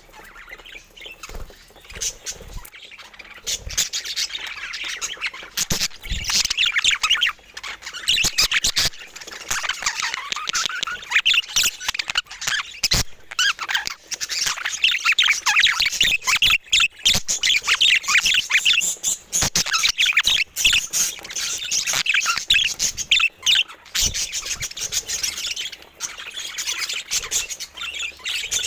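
Budgerigars chattering, a dense run of fast high chirps and warbles with scattered sharp clicks, getting busier about four seconds in.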